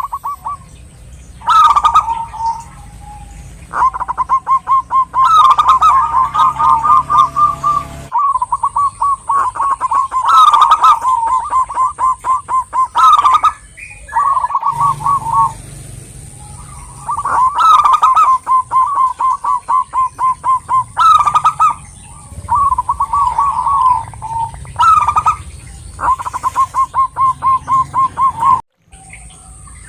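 Zebra doves (perkutut) cooing in overlapping phrases of rapid, trilled notes, one phrase running into the next. The calls break off abruptly a few times.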